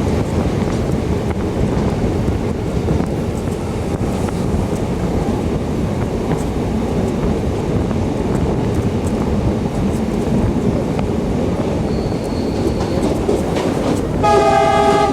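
Passenger train running along the track, a steady rumble and rattle of wheels and carriage. Near the end a brief, steady pitched tone sounds over it.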